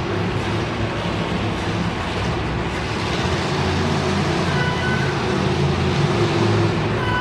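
A monster truck engine running loudly and steadily, its pitch shifting up and down, in a large echoing arena.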